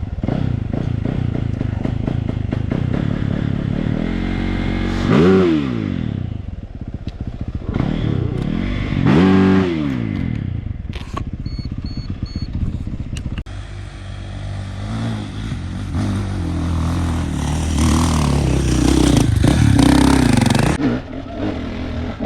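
Dirt bike engine running on a rough trail, revved hard twice (about five and nine seconds in), each a quick rise and fall in pitch, then pulling steadily under load with clatter and scraping from the bike over the ground.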